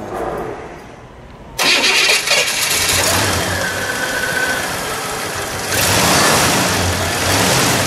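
A 1965 Chevrolet Malibu Chevelle's 327 V8 with dual exhaust starts suddenly about a second and a half in and settles into a steady idle. It is revved briefly about six seconds in.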